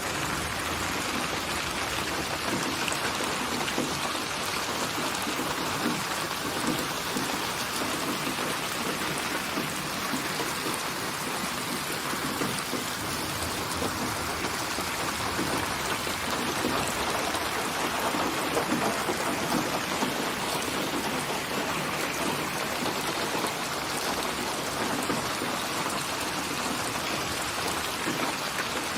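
Steady rain falling, an even hiss with fine pattering of drops on a surface.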